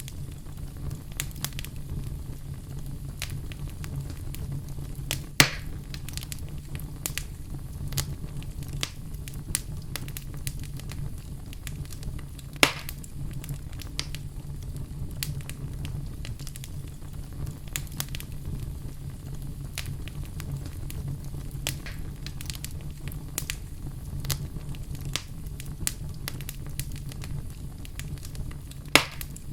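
Wood fire crackling in a fireplace over a steady low rumble, with frequent small crackles and three louder pops: about five seconds in, near the middle, and near the end.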